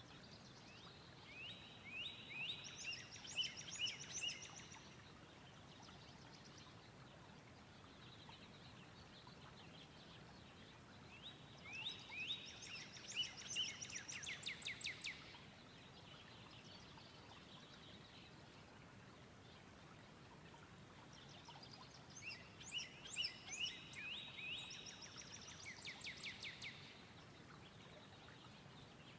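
A songbird singing three separate phrases about ten seconds apart. Each phrase is a few seconds of quick high notes ending in a fast trill, over a steady soft background hiss.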